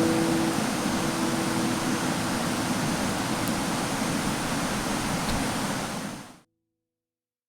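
A steady rushing noise, with the last note of background music ringing out during the first second. The noise fades out quickly about six seconds in.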